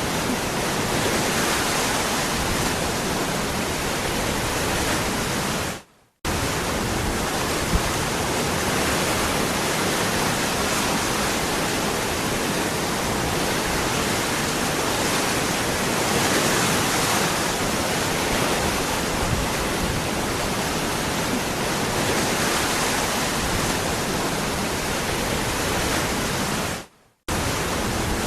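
Waterfall rushing, a steady full hiss of falling water. It fades out and drops to silence for a moment twice, about six seconds in and near the end, then comes back abruptly, as at the joins of a looped recording.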